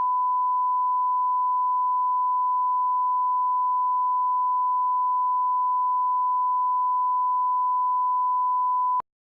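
Continuous electronic test tone, one pure steady pitch, cutting off suddenly near the end.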